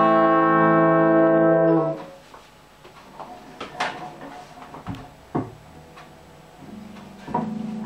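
A sustained synthesizer chord holds and then cuts off about two seconds in, ending the song. After it come a few light clicks and knocks, and near the end a low steady tone sets in.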